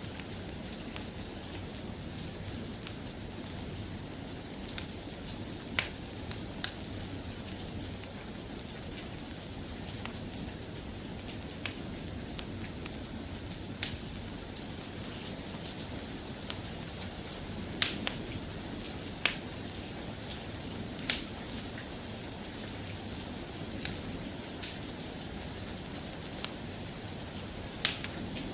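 Soft, steady rain, with a few sharp pops or ticks scattered through it.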